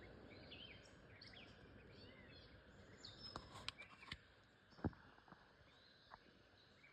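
Faint outdoor ambience with short, high bird chirps through the first few seconds and a few sharp clicks or taps, the loudest about five seconds in.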